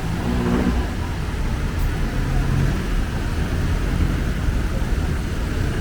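Street traffic: motor vehicle engines running close by in a steady low rumble, with one engine note standing out briefly in the first second.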